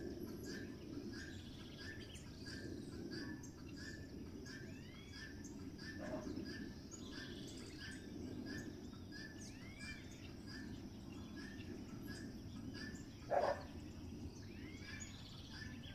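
Birds calling outdoors: one bird repeats a short note about twice a second, with other brief rising-and-falling chirps over it, against a steady low background noise. A louder short call stands out near the end.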